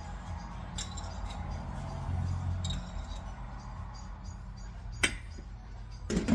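Kitchen utensils clinking lightly against cookware, with one sharp clink about five seconds in and another near the end, over a steady low hum.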